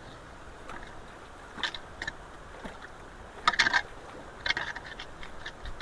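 Steady rush of floodwater with several short sloshing, crackling bursts as debris is worked loose from a clogged culvert inlet, the loudest about three and a half seconds in.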